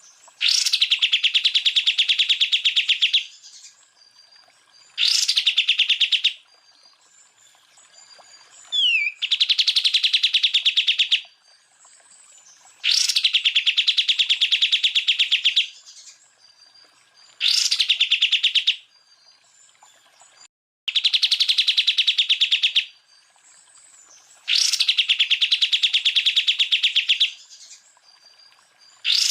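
Green leafbird (cucak ijo) singing its harsh 'tembakan' song: repeated rattling trills of very fast notes, each a few seconds long and opening with a sharp rising note, with short pauses between. A brief falling whistle comes about nine seconds in.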